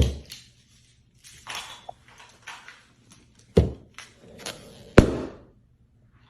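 Several sharp knocks and thumps in a small room. The loudest come right at the start, about three and a half seconds in, and at five seconds, with softer scuffing and tapping between.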